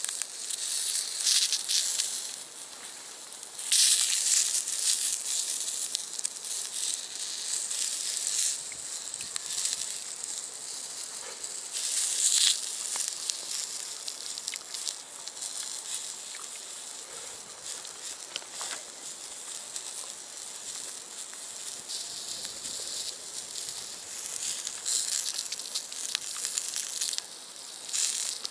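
Food sizzling in a cast-iron skillet over a small wood-burning box stove: a steady hiss that swells louder a few seconds in and again about twelve seconds in, with light scattered crackles.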